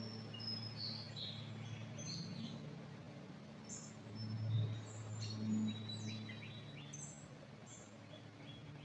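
Several small songbirds chirping and twittering in short high calls and brief trills, overlapping, over a steady low hum.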